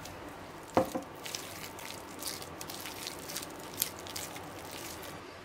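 Wooden spoon stirring and mashing a moist egg-yolk, mushroom and mayonnaise filling in a ceramic bowl. It knocks sharply against the bowl about a second in, then goes on with soft squishing and scraping strokes.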